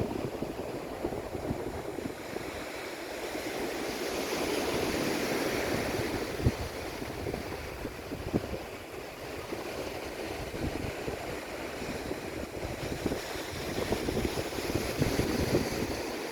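Airliner landing: a steady rush of jet engine and airflow noise that swells and eases twice, with a few short knocks.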